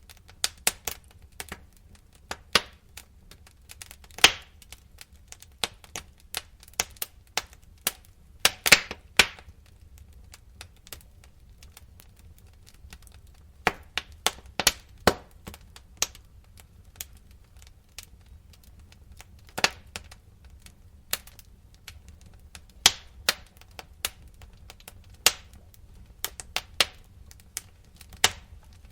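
Wood fire crackling in a fireplace: irregular sharp pops and snaps, some close together and some several seconds apart, over a faint low rumble.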